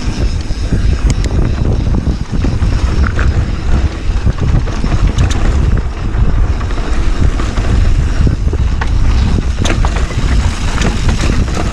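Wind buffeting the camera microphone of a mountain bike descending a rocky trail, over tyre noise and the rattle and knocks of the bike over rocks.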